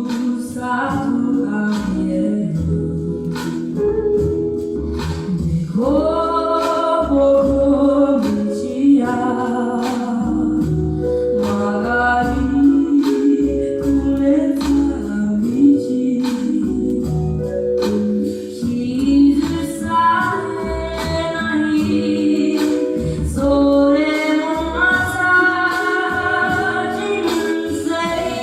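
A girl singing a ballad in Japanese to a small live band of guitar, upright bass and percussion, with the bass notes prominent beneath her voice.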